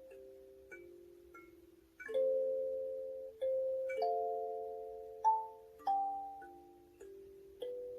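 Two kalimba parts playing a slow melody over chords, each plucked tine ringing on and fading slowly.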